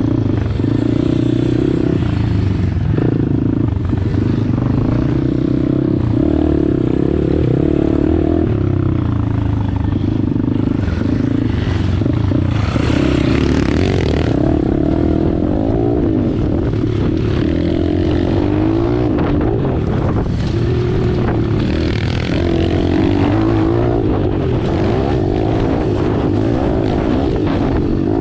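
Pit bike's small single-cylinder four-stroke engine running hard under way, its revs dipping and climbing again several times with throttle and gear changes.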